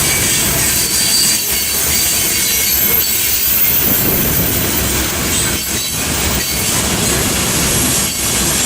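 Train cars rolling past, wheels rumbling steadily with a thin, high wheel squeal held over the top.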